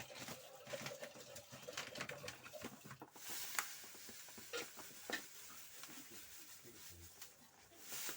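Pigeons cooing faintly, with scattered light clicks and knocks and a short hiss about three seconds in.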